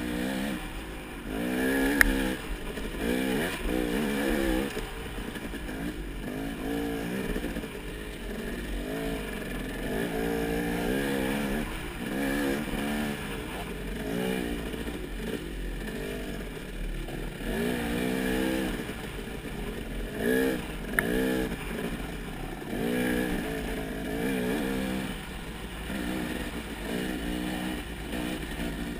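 Off-road motorcycle engine revving up and down over and over as it is ridden hard, with two sharp knocks, one about two seconds in and one about two-thirds of the way through.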